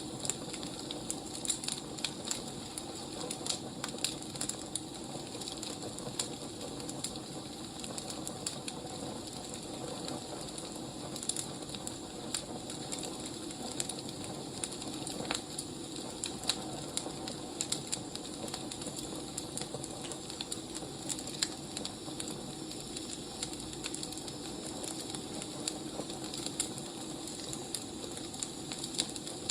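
Burning firewood crackling: frequent irregular sharp pops and snaps over a steady low hiss.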